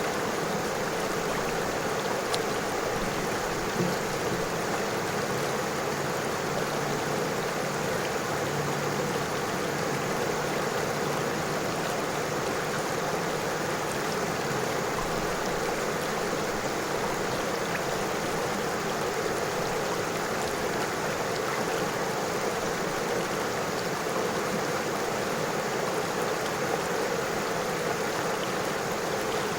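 River water flowing steadily, an even rushing sound without breaks.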